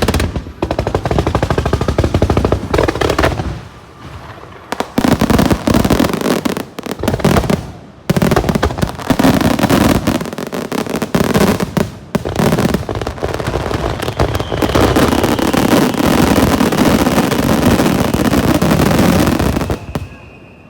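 Fireworks finale barrage fired close by: dense, rapid-fire shell bursts and crackling launches. It comes in waves with brief lulls, swells into a sustained volley, then cuts off sharply near the end.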